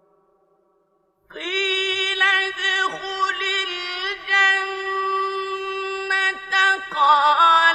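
Melodic Quran recitation: a single voice comes in about a second in and holds a long, drawn-out note with small ornamental turns in pitch.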